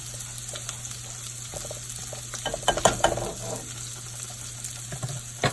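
Chopped onions and garlic sizzling in melting butter while a utensil stirs them in the pan, with a run of clicks and scrapes against the pan about halfway through.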